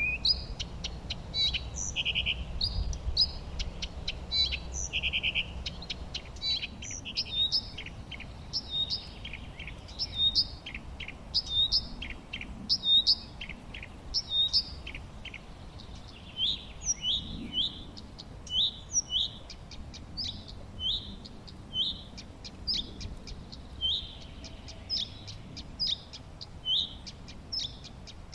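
Songbirds chirping and singing, with many short, high notes and quick ticking calls. In the second half one bird repeats a short call note over and over, slightly more than once a second.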